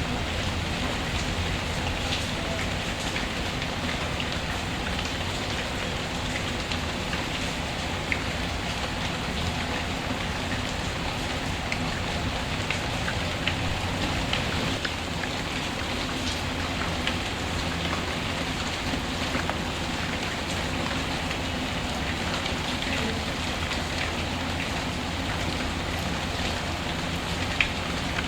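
Steady rain with a crackling wood fire: an even hiss of rainfall with scattered sharp crackles and pops, one louder pop near the end.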